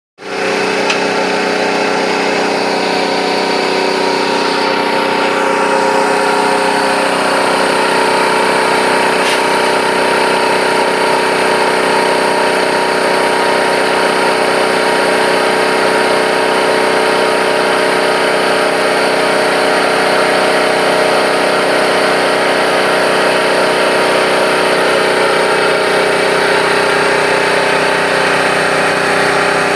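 Bauer Junior II E high-pressure piston compressor running steadily during a pressure test: an even mechanical drone with a constant hum in it.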